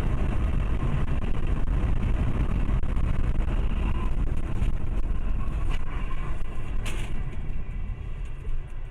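A car on the move: a steady, low rumble of engine and road noise, with a few light clicks and a sharper click about seven seconds in.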